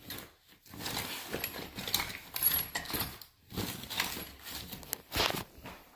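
Irregular light knocks, clicks and rustling of handling, with the loudest knock about five seconds in.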